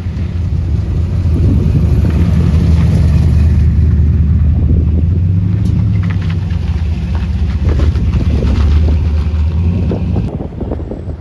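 A car on the move: steady engine and road rumble with wind on the microphone, easing off near the end.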